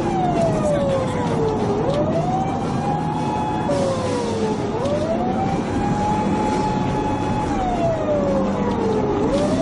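Police patrol car siren wailing: a tone that holds high, slides down over a second or two, then swings back up, about three times over. Under it run the car's engine and road noise.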